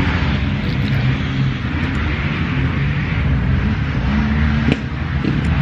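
Dirt bike engines running at a motocross track, a steady low drone.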